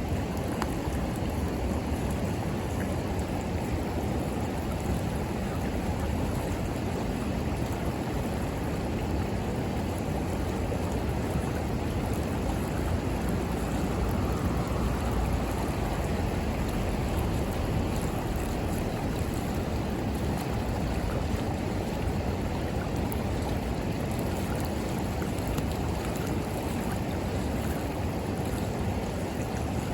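River water rushing steadily. A few faint crackles from the bonfire pop through now and then.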